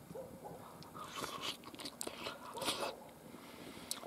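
A man chewing a mouthful of beef bograch goulash close to the microphone: soft, irregular wet chewing sounds, with one small sharp click near the end.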